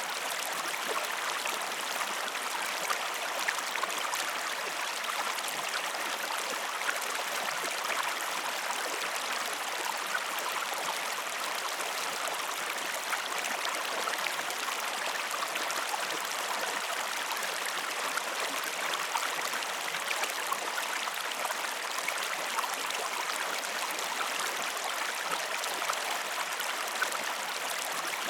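Flowing stream water: a steady, even wash of running water with many small splashes and drips.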